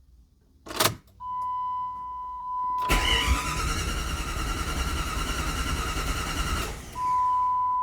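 A 1997 Jeep Grand Cherokee's 5.2L V8 cranking on its starter for about four seconds without catching: a crank-no-start after the top-end rebuild. A steady electronic beep sounds before and after the cranking, and there is a sharp click near the start and near the end.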